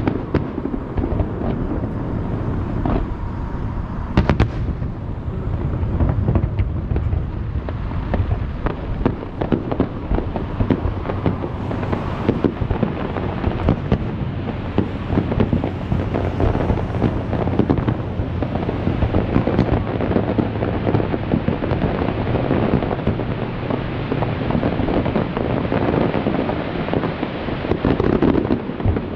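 Aerial fireworks bursting in rapid, overlapping succession: a continuous rumble of booms with crackle, and a few sharper bangs about four seconds in.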